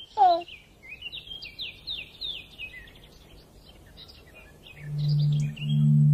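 A small bird chirping, a quick run of short falling notes at about four a second lasting a couple of seconds. About five seconds in, a loud steady low drone sets in.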